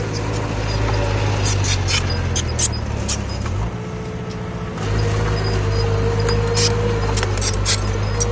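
Bulldozer's diesel engine running under load, easing lower for about a second past the midpoint and then picking back up. Short high squeaks and clinks sound over it, typical of steel tracks working.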